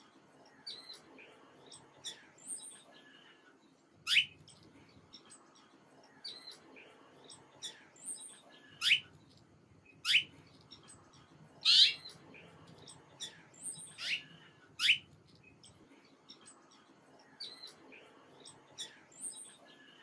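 Songbirds chirping: a scatter of small high chirps, with five loud, sharp calls sweeping downward in pitch between about four and fifteen seconds in.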